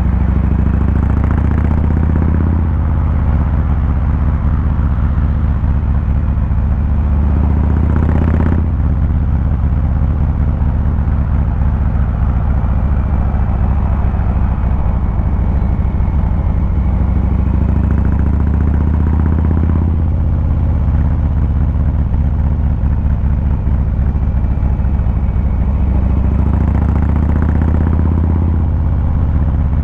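Harley-Davidson Fat Boy 114's V-twin engine and exhaust heard while riding, with a loud low rumble throughout. The note builds and then drops away abruptly a few times, most sharply about eight seconds in and again about twenty seconds in, as the throttle is rolled on and eased off through gear changes.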